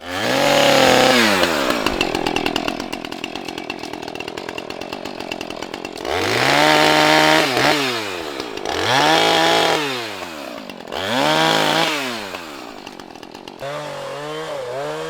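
Two-stroke chainsaw revved high and held several times, dropping back to idle in between, as when cutting through fallen trees. It starts at full revs, idles for a few seconds, then runs up to speed four more times.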